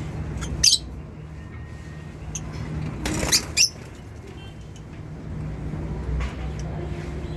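Lovebirds giving short shrill chirps, one under a second in and a quick cluster of two or three around three seconds in, over a steady low hum.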